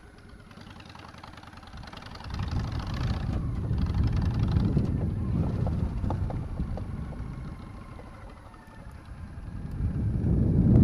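Motorcycle engine running as the bike works through an upshift-downshift-turn practice exercise. The sound swells about two seconds in, fades a few seconds later and swells again near the end.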